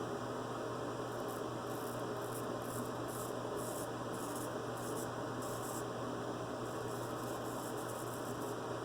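Vintage Joseph Allen and Sons straight razor scraping through lathered stubble in quick short strokes, about three a second, with a brief pause past the middle. A steady electrical hum and hiss run underneath.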